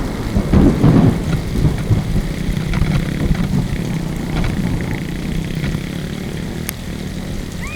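Wind buffeting the microphone on a moving motorcycle: a steady low rumble with irregular gusts, strongest about a second in, and the bike's running engine underneath.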